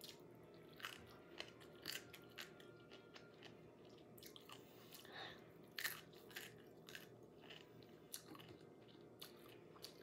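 Faint chewing of crunchy pickled radish cubes close to the microphone, with scattered small crunches and wet mouth clicks.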